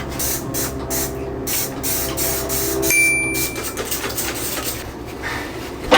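Scrubbing a stovetop by hand, a run of quick rubbing strokes that slow down in the second half.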